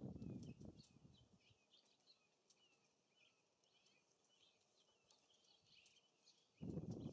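Small songbirds calling with many short, high chirps. Wind gusts rumble on the microphone at the start and again near the end, louder than the birds.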